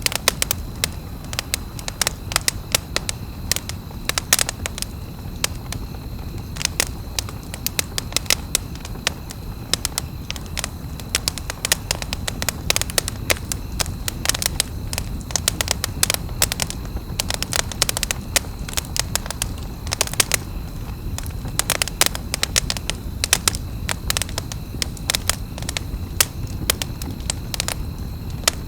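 Campfire crackling: frequent, irregular sharp pops and snaps over a steady low rumble of burning.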